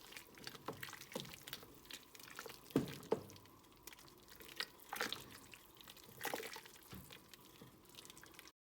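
Faint, scattered wet plops and drips of soup liquid in the pot, the two sharpest about three seconds in. The sound cuts off suddenly near the end.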